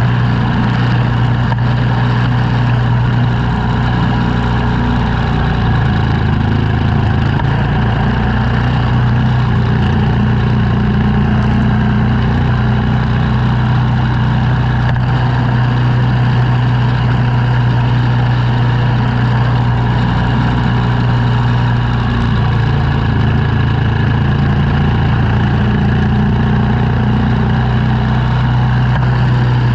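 An engine runs steadily at a constant speed, with a slight change in its note a few seconds in and again past the middle.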